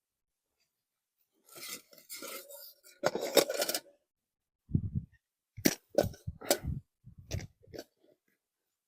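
Cooking gear being handled: a rustle and a scrape, then a run of clinks and knocks, several with a dull thud, like metal pots and utensils set down and moved.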